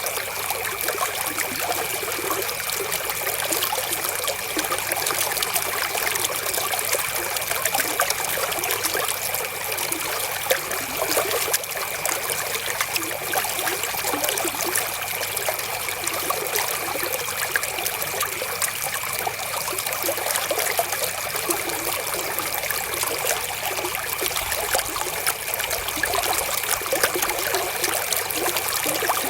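River water flowing and trickling in a steady, unbroken rush, with a faint steady high tone underneath.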